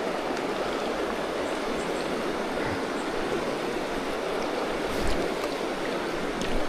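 Steady rushing of a fast-flowing river, the Tyenna running high, with a faint low knock about five seconds in.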